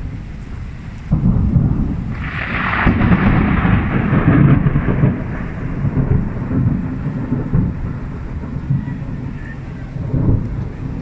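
Thunder: a sudden clap about a second in that rolls on as a long rumble for several seconds, swelling again near the end.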